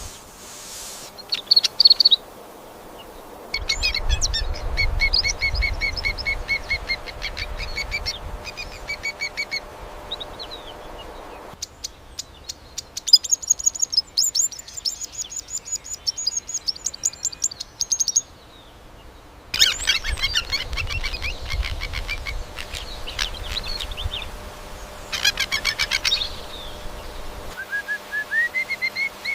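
Several different birds singing and calling in turn, each segment a rapid run of short, repeated high-pitched chirps, with abrupt cuts from one recording to the next.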